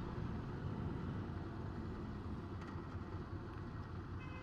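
Ducati Monster 797's air-cooled L-twin engine running under way, with low road and wind rumble, fading slightly.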